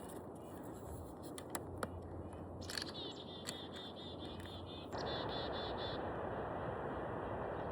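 Steady outdoor rustle with a few sharp handling clicks, and a small bird calling rapid runs of high, repeated notes from about three seconds in; the background noise steps up suddenly about five seconds in.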